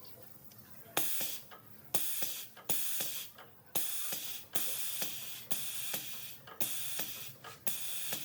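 A series of short hissing bursts of air or spray, about nine of them, roughly one a second, each starting abruptly and lasting under a second.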